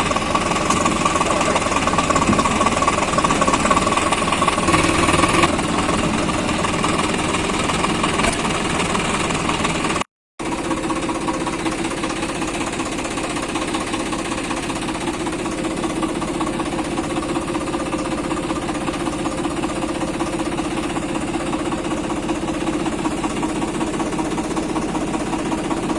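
Swaraj 742 XT tractor's three-cylinder diesel engine running steadily with a knocking diesel clatter. The sound cuts out for a moment about ten seconds in, then carries on.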